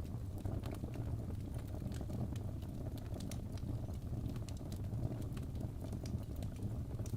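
Wood fire burning in a fireplace: a steady low roar of flames with frequent small crackles and pops from the burning logs.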